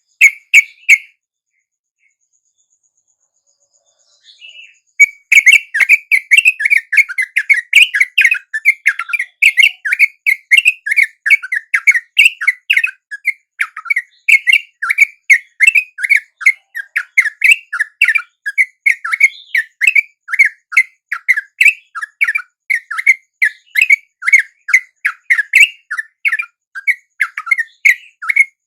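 Yellow-vented bulbul (trucukan) calls: a brief burst of chirps, a pause of a few seconds, then a fast run of about three chirps a second that goes on without a break. The steady repetition fits a looped trucuk lure recording used to call wild bulbuls in.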